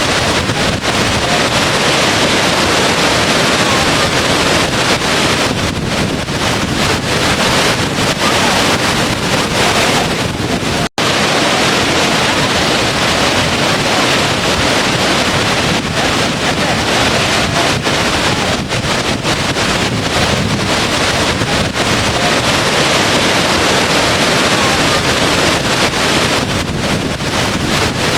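Steady, loud rush of falling water, like a waterfall or heavy rain, with no distinct events. The sound cuts out for an instant about eleven seconds in, then resumes as before.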